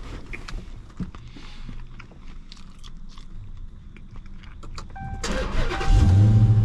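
Small clicks and rustling, then about five seconds in a car's chime sounds and the Dodge Hellcat Redeye's supercharged 6.2-litre HEMI V8 cranks and fires, going into a loud, steady idle.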